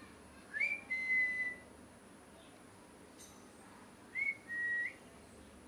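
Two clear whistled notes about three and a half seconds apart. Each is a short lift to a higher pitch, then a held, slightly lower tone lasting most of a second.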